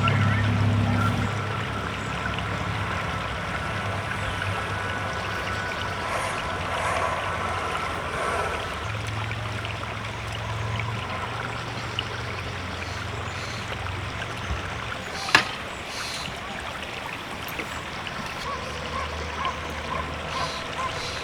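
River water flowing steadily, with one sharp click about fifteen seconds in.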